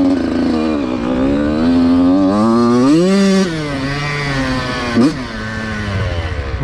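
Dirt bike engine revving, its pitch climbing to a peak about three seconds in and falling back, with a quick short blip about five seconds in. The bike is getting no traction in the mud.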